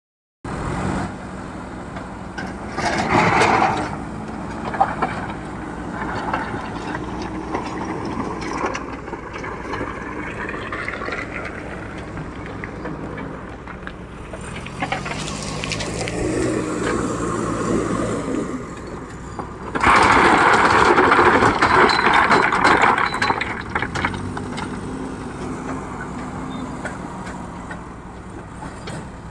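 JCB 3DX Super backhoe loader's diesel engine working under varying load, its pitch rising and falling as the machine moves. There is a loud rattling rush about three seconds in and a longer, louder one from about twenty to twenty-three seconds, fitting stone being tipped into the steel truck body.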